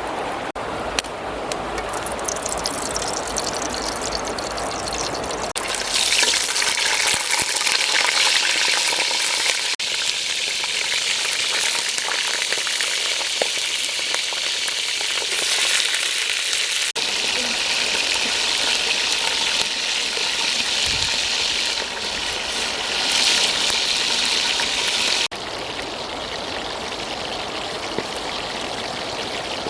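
Food frying in a pan: a steady sizzle, its level shifting abruptly a few times.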